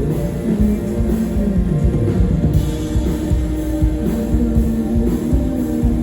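Rock band playing live: sustained electric guitar lines over bass and a steady drum-kit beat.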